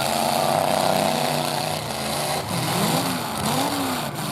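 Several full-size pickup truck engines revving hard in a demolition derby, their pitch rising and falling again and again over a dense, steady wash of engine noise.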